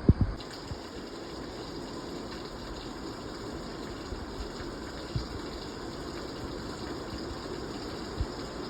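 Steady rushing of water, even and unbroken, with a few soft low knocks, the loudest right at the start.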